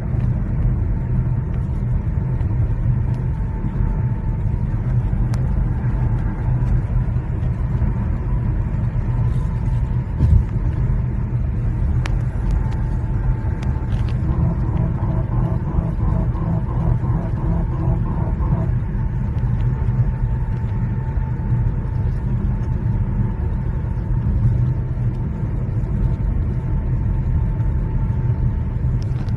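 Steady low rumble of a Genesis GV80's 3.0-litre inline-six diesel and its tyres while cruising at a constant 100 km/h. There is a brief thump about ten seconds in, and a faint pulsing tone for about four seconds midway.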